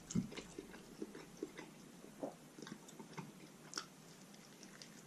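Close-up eating sounds of a person biting into and chewing a juicy roast chicken drumstick: soft, wet smacks and small clicks of the mouth, a few a second.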